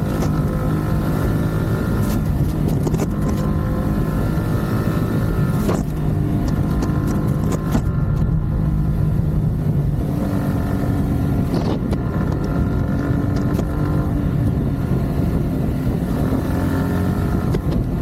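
Yamaha MT-15's 155 cc single-cylinder engine and exhaust running at steady revs while riding, the pitch shifting a little about ten seconds in as the revs change.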